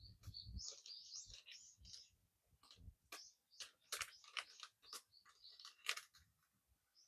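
Campfire crackling with scattered sharp snaps, and small birds chirping high-pitched in the first couple of seconds.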